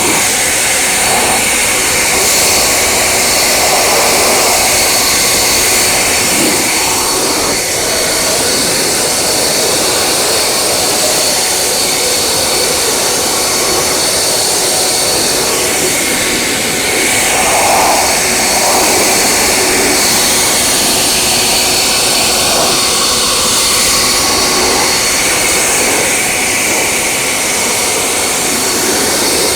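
Car-wash equipment running steadily and loudly: a dense rush of air or spray with a faint high motor whine, without a break.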